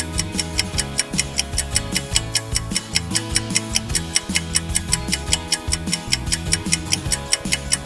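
Countdown thinking music for a quiz: rapid, even clock-like ticking over a bass line and held notes.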